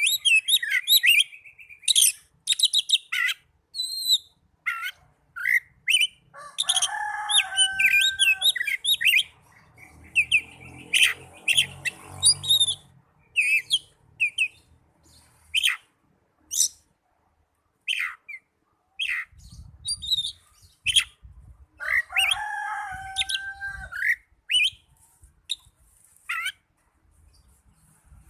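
Oriental magpie-robin (kacer) singing in fighting mode: a fast, varied string of sharp chirps and clear whistled notes, with two longer, lower whistled phrases. This is the aggressive song used as a lure to rouse another kacer to fight and open its tail.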